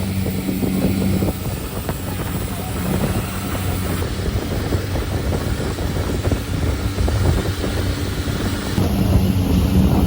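Speedboat engine running under way, with rushing wind buffeting the microphone and choppy water noise against the hull; the low engine drone stands out more strongly about a second in and again near the end.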